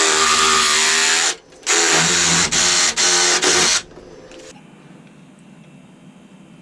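Power drill running at full speed in two bursts, the second briefly let off three times, then stopping about four seconds in.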